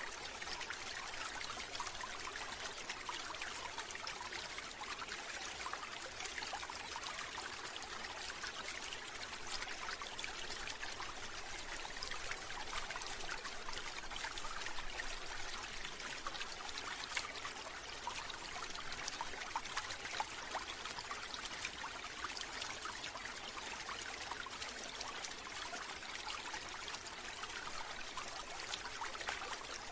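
Running water trickling and splashing steadily, a continuous bed of small splashes with no change in flow.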